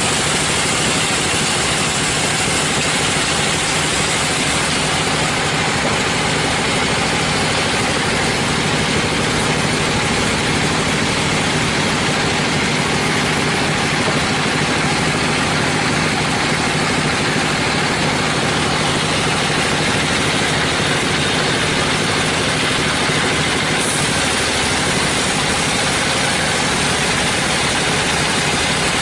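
Sawmill machinery running steadily: a loud, even mechanical noise with a low engine hum underneath.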